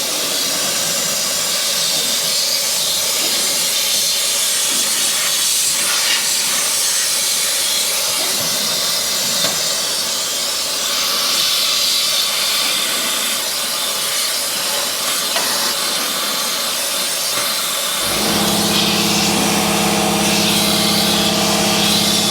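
Compressed-air undercoating gun spraying oil in a long, steady hiss as it atomizes the oil into a truck's inner fender cavity. Near the end a steady motor hum starts up under the hiss.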